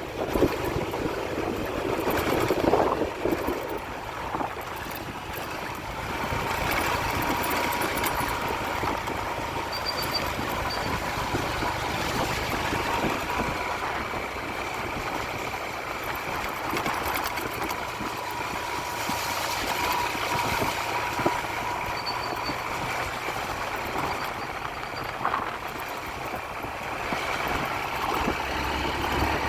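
A vehicle driving down an unpaved mountain road, its engine running steadily under the noise of the road, with a faint steady whine.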